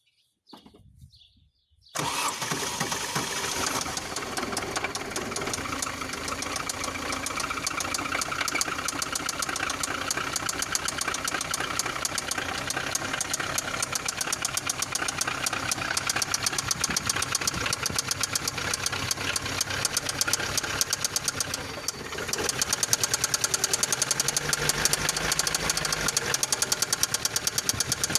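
A 1.3S petrol engine starting about two seconds in and then running with a steady, rapid rhythmic knock. Near the end it briefly drops, then runs louder with the knock more pronounced. The knock is one the owner cannot place, in an engine whose spark plugs are black.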